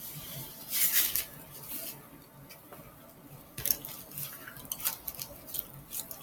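Close-miked eating sounds of a tortilla burrito being handled and chewed: a burst of crackling about a second in, then a string of sharp, separate wet clicks.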